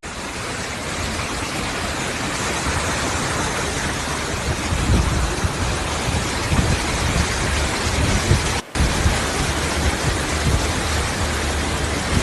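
Rainwater rushing steadily into a desert sinkhole: a dense, even rushing noise with a strong low rumble, broken briefly by a cut about three-quarters of the way through.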